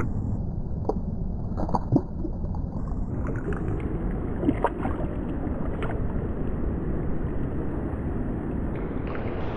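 Steady rush of a small mountain stream's water, with a few small splashes and ticks scattered through it.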